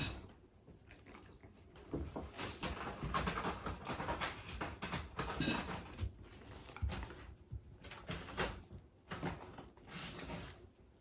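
A dog sneezing and breathing out sharply through its nose: a series of short, irregular noisy bursts, the sharpest about five and a half seconds in.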